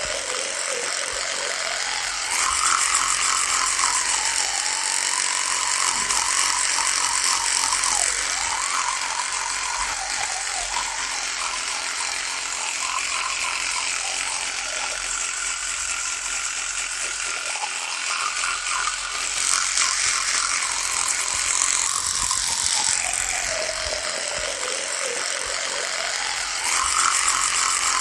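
Electric toothbrush running, a continuous buzz with a rattle. The pitch of its hum slowly sinks and rises again every few seconds, and it grows louder for a few seconds at a time, about a tenth of the way in, about two-thirds through and near the end.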